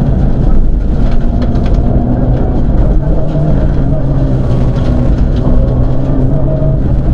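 Mitsubishi Lancer Evolution IX rally car's turbocharged 2.0-litre four-cylinder engine running hard at speed, heard loud from inside the cabin, with scattered clicks and rattles over the top.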